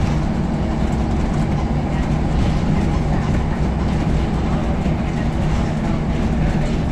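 Scania L94UB single-deck bus under way: its diesel engine drones steadily over a continuous rumble.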